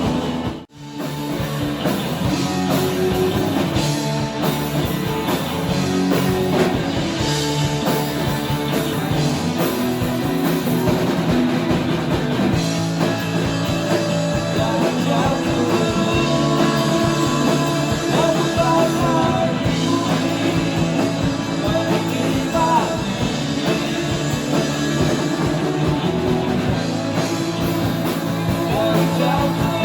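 Rock band playing a song, with singing over guitars and a drum kit. The sound drops out for a moment just under a second in.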